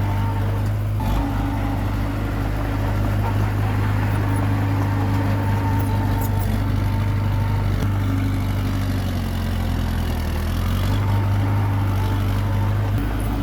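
Komatsu D21P bulldozer's diesel engine running steadily, its note shifting slightly a few times.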